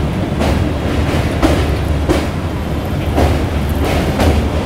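Passenger train running across a steel truss bridge, heard from an open coach doorway: a steady low rumble of the wheels and coach, with a rhythmic whoosh about twice a second as each girder of the bridge passes close by.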